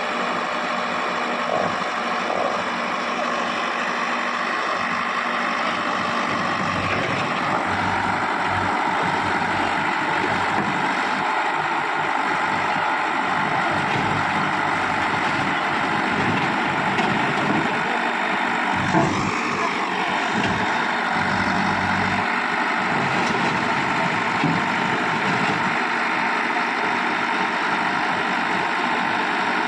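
Heavy diesel engine running steadily at low revs, with a brief whine that rises and falls in pitch about two-thirds of the way through.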